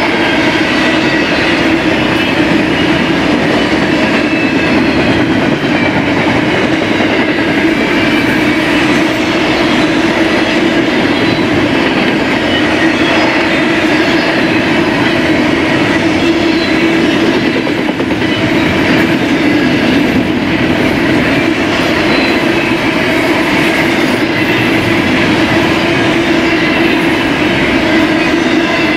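A BNSF freight train rolling past: a steady, loud rumble of steel wheels on rail, with faint high wheel squeals now and then.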